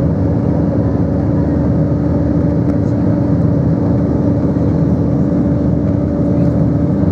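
Steady engine and airflow noise heard from inside an Airbus A320 cabin, with a constant low hum running under it.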